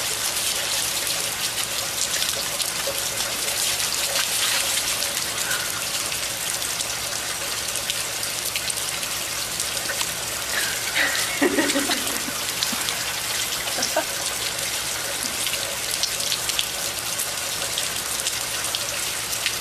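Steady rain falling, an even hiss throughout, with one short lower sound about eleven seconds in.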